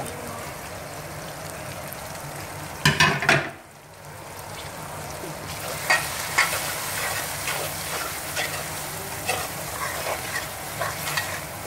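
Onions, tomatoes and green chillies sizzling steadily in oil in a metal karahi, with a metal spoon scraping and clinking against the pan as freshly added spices are stirred in. There is a cluster of louder clatters about three seconds in, and the sizzle drops briefly just before four seconds before building back.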